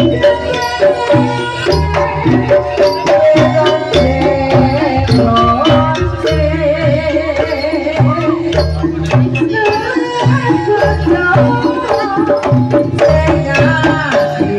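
Live jaranan (kuda lumping) ensemble music: kendang hand drums beating a steady, driving rhythm under a wavering melody line.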